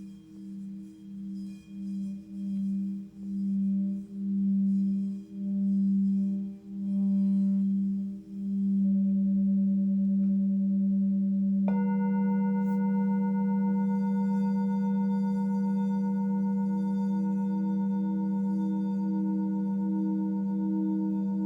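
Tibetan singing bowls ringing. A low bowl's hum swells louder with a slow wobble that settles into a steady tone. About twelve seconds in, a higher bowl is struck and rings on over it.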